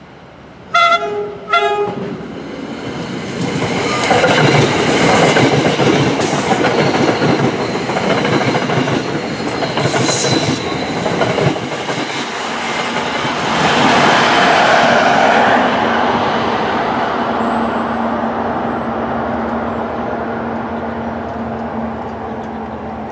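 Two short blasts of a New Jersey Transit train horn, then the train rolls past with its wheels clicking over the rail joints. The noise is loudest about fourteen seconds in, as the PL42AC diesel locomotive at the end of the train goes by, and it fades as the train moves away.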